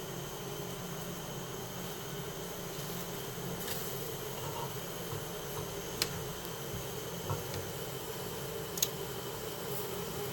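Swarm of honeybees buzzing steadily at close range, with a few sharp clicks, about six and nine seconds in.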